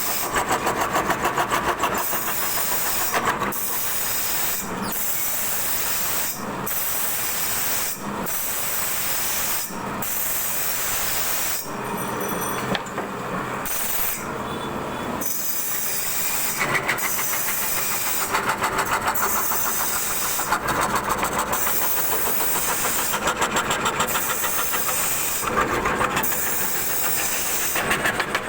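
CNC wood carving router cutting wood: a steady hissing run with a rapid buzzing chatter that swells and fades every second or two as the bit works through the cut.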